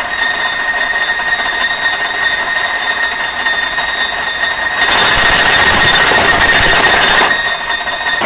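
Wood chipper running with a steady high whine. About five seconds in it turns louder and rougher for about two and a half seconds, then settles back.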